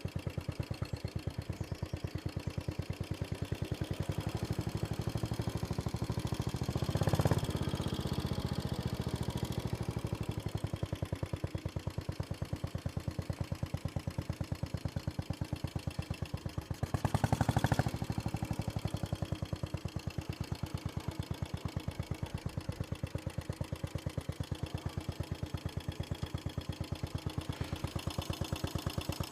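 Royal Enfield Bullet Machismo 500's single-cylinder four-stroke engine running through its tulip exhaust with a steady, rapid thump, with two brief louder swells about 7 s and 17 s in.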